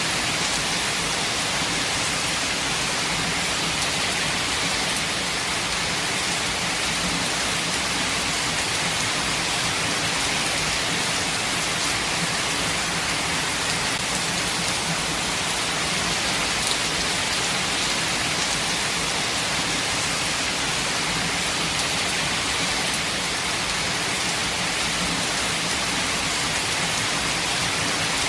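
Steady heavy rain falling, a dense even hiss with scattered droplet ticks.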